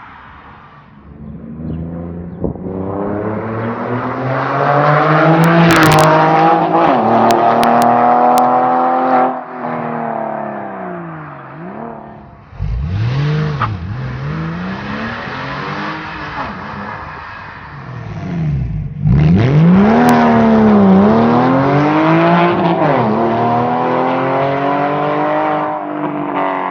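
Porsche 996 Carrera 4's flat-six engine, its mufflers replaced by bypass pipes, revving: the pitch climbs steadily for several seconds, then drops and rises again in a series of quick swoops. A few sharp clicks come through while it climbs.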